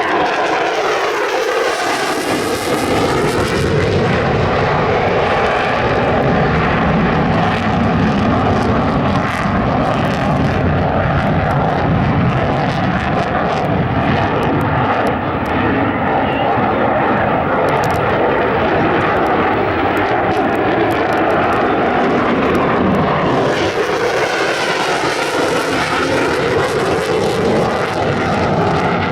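Lockheed Martin F-35A Lightning II's jet engine, loud and steady throughout as the jet flies its display. The pitch falls just at the start as it passes.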